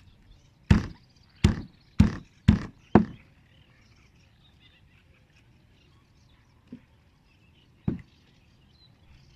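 A series of sharp knocks: five quick ones about half a second apart, then two more, the first faint and the second stronger, near the end.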